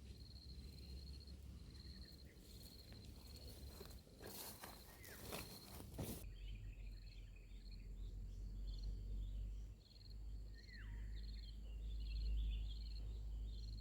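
Outdoor ambience: an insect keeps up a steady, evenly pulsing high trill, with small birds chirping and two short falling whistled calls in the second half. A burst of rustling crackles sounds about four to six seconds in.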